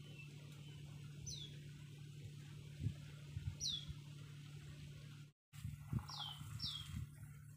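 A bird repeats a short, high whistle that falls in pitch, every two or three seconds, over a steady low hum. A few soft low thumps come through.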